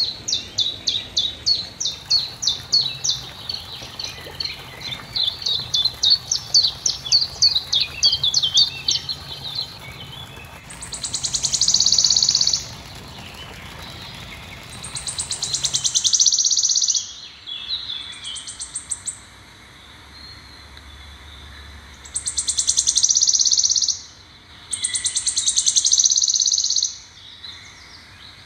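Birds singing outdoors: a rapid run of high chirps, about three to four a second, for the first nine seconds or so, then five separate high buzzy trills of a second or two each.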